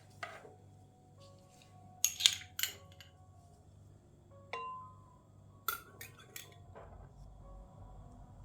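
Sharp clinks and knocks of hard objects in small clusters, some leaving a brief ringing tone. The loudest come about two seconds in, and others come near the middle and about six seconds in. A steady low hum runs underneath.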